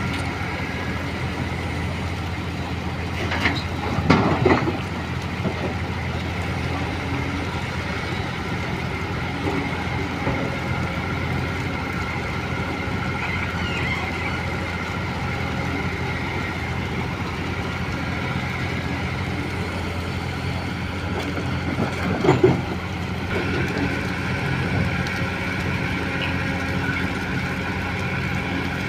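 Truck engine running steadily with a constant low hum. Two short, loud bursts break in, about 4 seconds in and again about 22 seconds in.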